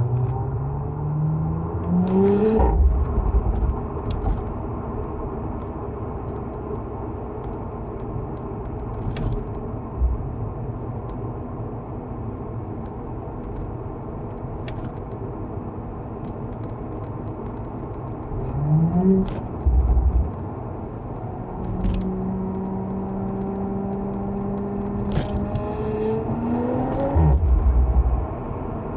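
Audi S5 Sportback's V6, fitted with an aftermarket downpipe and RS exhaust, pulling under throttle while driving: the engine note rises sharply about two seconds in, again near the middle and again near the end, with a steady cruising drone in between. A heavy low thump comes at each of those pulls.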